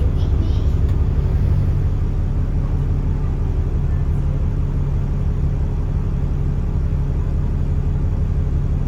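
Alexander Dennis Enviro400 double-decker bus running steadily, a constant low engine and road rumble with no change in pitch.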